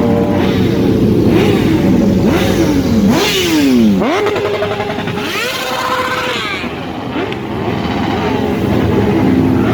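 Several motorcycle engines revving together, their overlapping notes rising and falling, with one sharp drop and climb about four seconds in.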